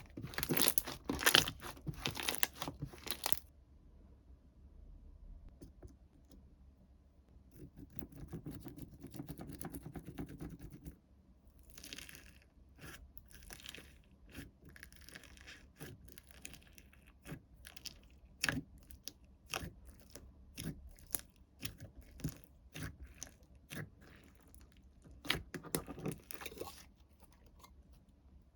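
Slime and its packaging being handled: crackling, crunching and tearing sounds, loud and dense for the first three seconds, then quieter scattered clicks and rustles, with a louder crackly cluster near the end.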